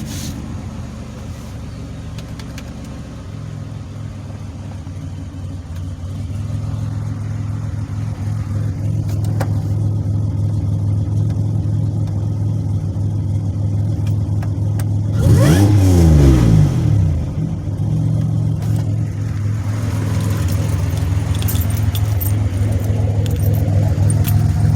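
2007 Pontiac Grand Prix GT's supercharged 3.8-litre V6 running at idle after restarting, its crank-no-start fault cured for now by new high-power relays. About fifteen seconds in, the engine is revved once and falls back to idle.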